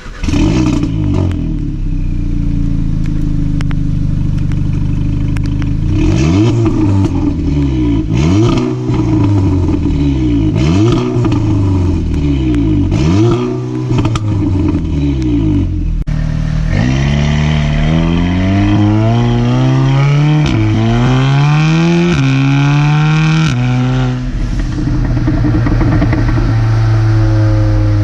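Audi S3 8V's turbocharged 2.0 TFSI four-cylinder, with a catted 3.5-inch downpipe and resonator delete, starting and running at a fast idle. It is then revved in repeated blips, crackling and popping on the overrun from a Unitronic Stage 2 overrun tune. About sixteen seconds in the car is driving, the engine pulling up through the gears with several upshifts before easing off.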